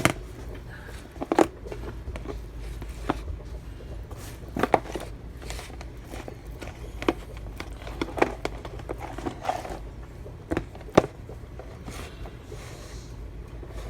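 Irregular clicks and knocks from handling the rack of ribs while its other side is seasoned with a dry rub, scattered about a dozen times over a low steady hum.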